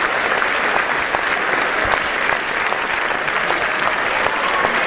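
Steady applause from a crowd: many hands clapping at once in a dense, even patter that holds its level.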